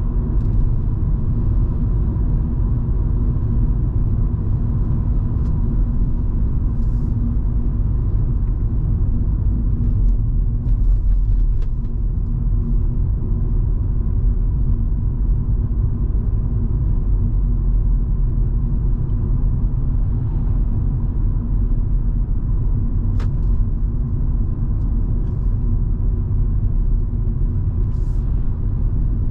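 Volvo V70 2.5T's turbocharged five-cylinder engine and tyres giving a steady low drone while cruising, with a few faint ticks now and then.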